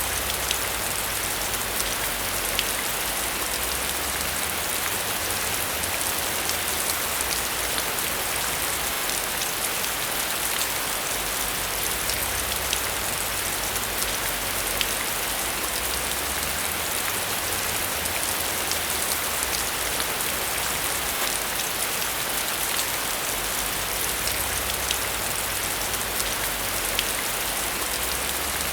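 Steady heavy rain falling and pattering on a surface, a dense even hiss full of fine drop ticks, with a low rumble underneath that comes and goes.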